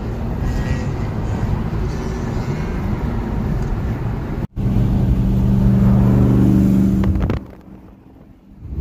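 Car engine and road noise while driving in traffic. About halfway through, the sound breaks off abruptly and comes back as a louder, steady engine drone, which falls much quieter about a second before the end.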